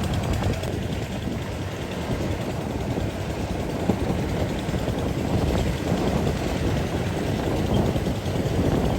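Rice combine harvester engine running steadily under load.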